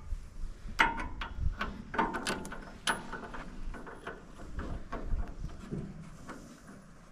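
Hand-tool work on a combine header's knife and guards: a cluster of sharp metallic clicks and knocks, some briefly ringing, in the first three seconds, then fainter scattered handling sounds that die away.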